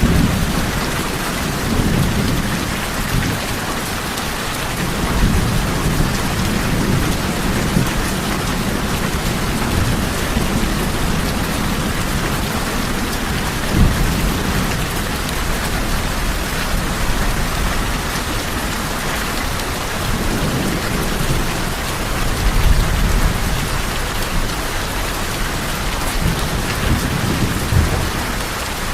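Steady rain falling on tin roofs, with low thunder rolling several times and one brief sharper clap about halfway through.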